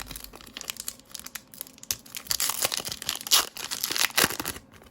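Trading card pack wrapper crinkling and being torn open, with the rustle and flick of cards being handled, in irregular crackly bursts that are loudest in the second half.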